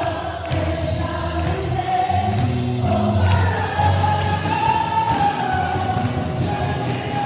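Choir singing gospel worship music with instrumental accompaniment, holding long sustained notes.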